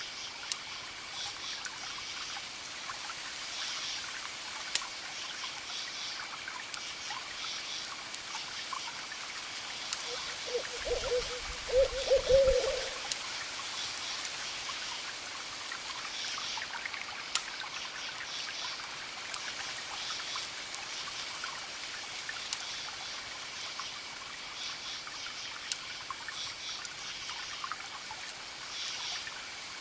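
Campfire crackling with scattered pops over crickets chirping in steady repeating pulses. About ten seconds in, a short run of low hoots rises above them for two or three seconds, the loudest sound.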